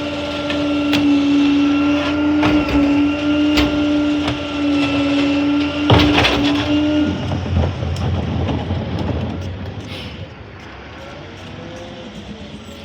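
Garbage truck at work: a steady whine with clanks and knocks, and a loud bang about six seconds in. The whine stops about a second later, leaving a lower engine rumble that fades about ten seconds in.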